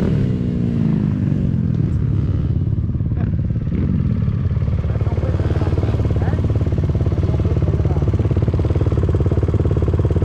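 Dirt bike engine coming off the throttle, its pitch falling over the first second or so, with a short blip of throttle about four seconds in. It then runs steadily at low revs.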